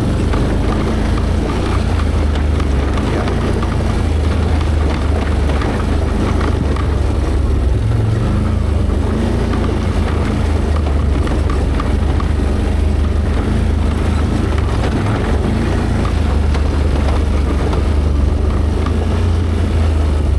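An ATV's V-twin engine running steadily as the machine rides along a dirt trail. The low engine note rises and falls slightly with the throttle.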